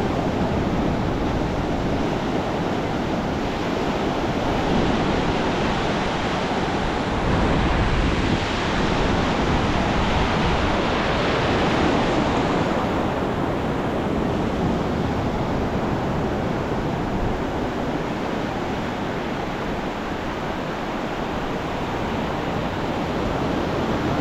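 Ocean surf breaking and washing ashore, a steady rush that swells about a third of the way in and eases off again, with some wind on the microphone.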